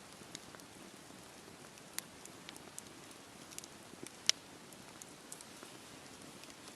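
Steady rain hiss with a campfire crackling, giving scattered sharp pops and ticks, the loudest about four seconds in.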